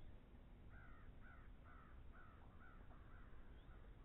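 Faint bird calls: a quick run of about seven short calls, a little under half a second apart, starting under a second in.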